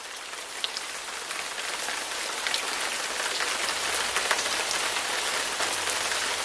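Steady rain falling, a dense patter of many small drops, growing louder over the first few seconds.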